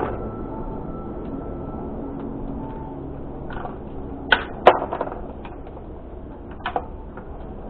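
A few short, sharp knocks and clicks over a steady background noise, the loudest two close together about four and a half seconds in.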